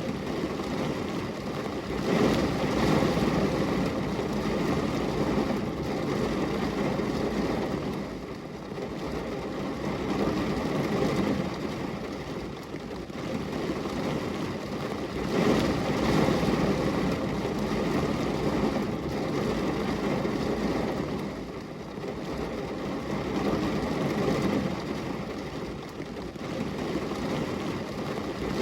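Steady rain on a glass window, a low, even rushing noise that swells and eases every few seconds.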